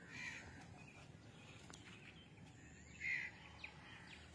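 Quiet outdoor background with two short bird calls, one at the very start and a louder one about three seconds in.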